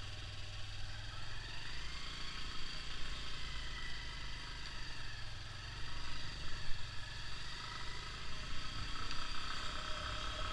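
Bajaj Avenger 160's single-cylinder engine running at low speed, heard from the rider's seat along with road and wind noise, with one brief louder bump about two-thirds of the way through.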